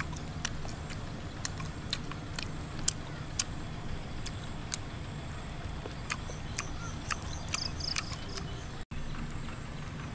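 Close-up eating sounds: irregular sharp clicks and smacks of chewing, a few times a second, over a low steady rumble.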